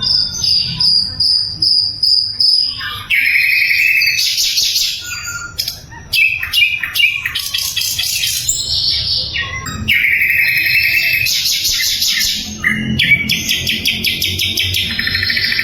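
Sikatan londo (blue flycatcher) singing: a run of high-pitched song phrases, each a rapid trill of repeated notes lasting one to three seconds, with short pauses between them.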